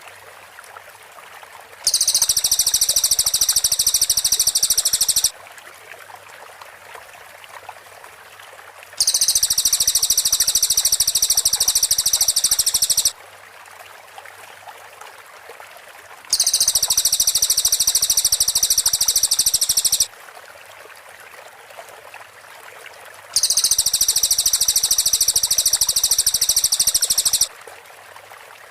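Cililin bird singing its rapid, high-pitched machine-gun trill, the 'tembakan rapat' style, four times, each phrase lasting about three to four seconds with a few seconds' pause between. A faint steady hiss like a stream fills the gaps.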